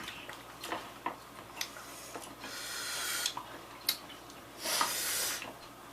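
Quiet mouth clicks and smacks from someone eating hot wings, with two hissing breaths sucked in through the teeth, about two and a half and four and a half seconds in, to cool a mouth burning from very spicy sauce.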